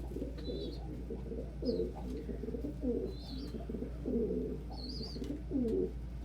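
Doves cooing over and over, a low call every half second to a second, with a few short high squeaks between them and a steady low blowing hum underneath.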